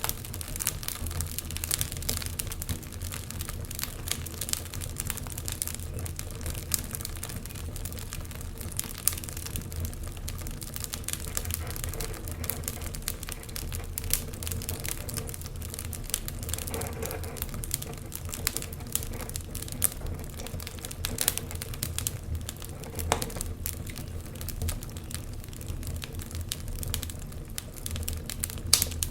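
Wood fire crackling, with many small sharp pops at irregular moments and a louder pop near the end.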